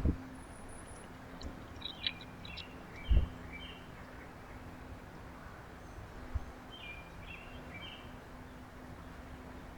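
Small songbirds chirping at a backyard feeder in a few short clusters of calls, with two loud low thumps, one at the start and one about three seconds in, over a steady low hum.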